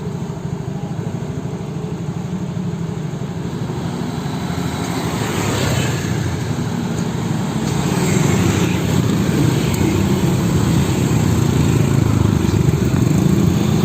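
Heavy vehicle engine rumble with road noise, growing steadily louder, with a couple of brief swells of wider hiss as vehicles pass.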